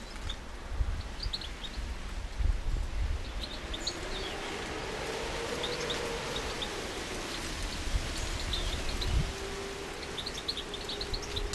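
Small garden birds, finches at a feeder, giving short high chirps scattered through. A faint low drone swells and fades in the middle, over uneven low rumbles.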